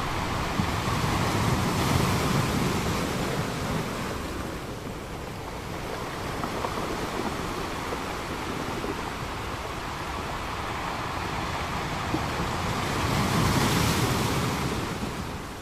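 Ocean waves breaking on a beach, a steady wash of surf that swells twice, once about two seconds in and again near the end, then begins to fade.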